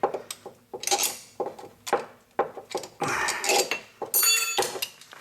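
Metal clinks and clanks of hand tools and steel parts being handled, a string of sharp knocks with one ringing metallic clang about four seconds in.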